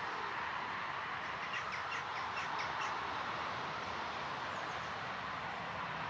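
A bird calling a quick run of about eight to ten short notes, from about a second and a half in to just under three seconds, over a steady background hiss.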